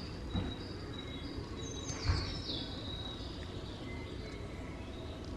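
Faint high chirps and short whistles, like small birds calling, some falling in pitch, with a soft knock about two seconds in.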